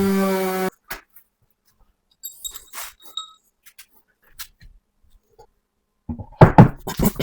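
A power tool's motor running with a steady hum, cut off abruptly under a second in. Then scattered clicks and light knocks, with a cluster of louder knocks near the end.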